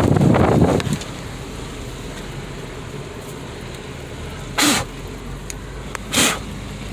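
Steady low hum of a car, heard with wind buffeting the microphone for the first second. About halfway through come two short, sharp squeaky sounds, a second and a half apart.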